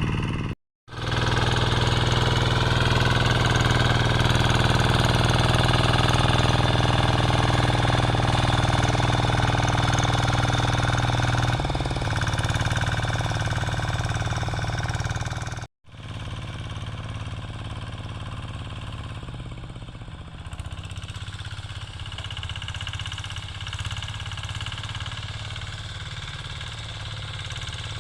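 Diesel engine of a Quick G3000 two-wheel hand tractor running steadily while plowing. It cuts out briefly about a second in and again about 16 seconds in, and is quieter after the second break.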